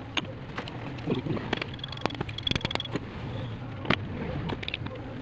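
Scattered metallic clicks and knocks from truck starter-motor parts and tools being handled during reassembly, over a steady low hum.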